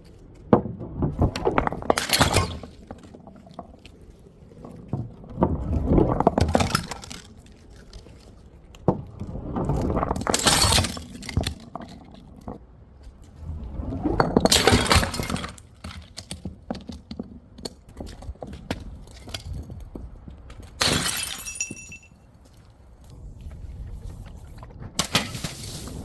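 Glass bottles shattering one after another, about six crashes a few seconds apart, each followed by a second or two of tinkling and crunching shards; one break near the end leaves a ringing glass tone.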